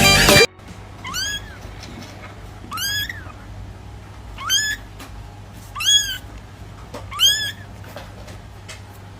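A cat meowing five times, about every second and a half, each meow rising then falling in pitch.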